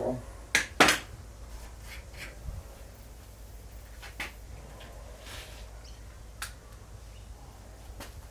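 A few separate sharp knocks and clicks over a low steady hum, the loudest two close together just before a second in, then single lighter ones every couple of seconds; no grinder running.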